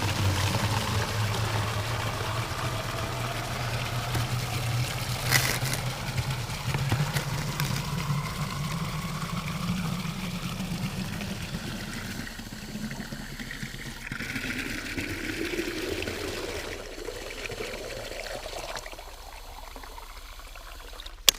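Fresh water pouring into a chicken waterer. The pitch rises steadily as the container fills, and the pour tapers off near the end.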